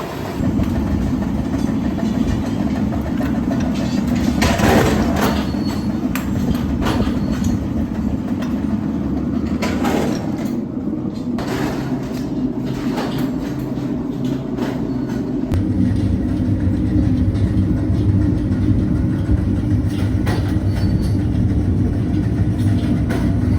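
Heavy factory machinery running steadily, with a few sharp metal knocks, in a metalworking shop where scrap steel is cut and forged into bolts. About two-thirds of the way through the drone changes to a deeper hum.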